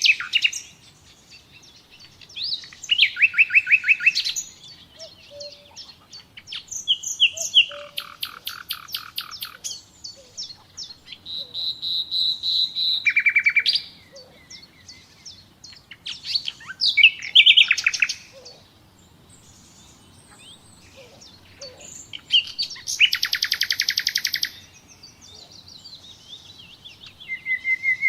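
Nightingale singing: a series of varied phrases, each a second or two long, built from rapid repeated notes, trills and clear whistles, with short pauses between phrases.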